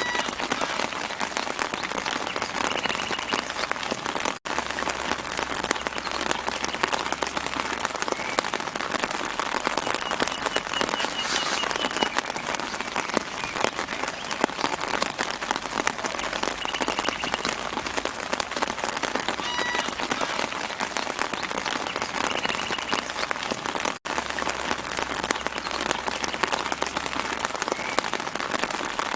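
Steady light rain pattering on leaves and the ground, with brief high bird chirps every few seconds. The rain cuts out for a split second twice.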